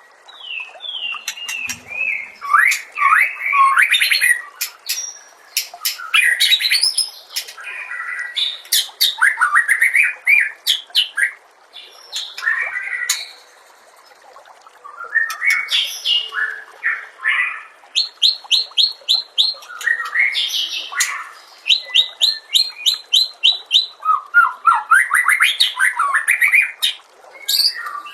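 White-rumped shama (murai batu) singing a long, varied song of sweeping whistled phrases and fast trills of repeated notes, with a short pause about halfway through.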